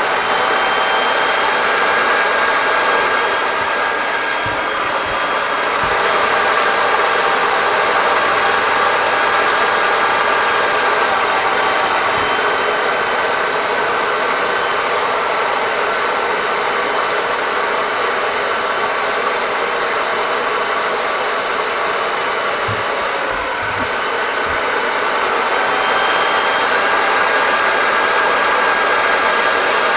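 Belt sander, mounted in a jig as a thickness planer, running continuously with a high steady whine over a rushing sanding noise.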